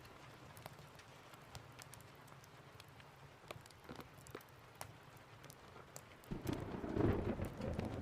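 Steady rain with scattered sharp crackling pops from a fireplace. About six seconds in, a thunder rumble starts suddenly and becomes the loudest sound, swelling and then easing off.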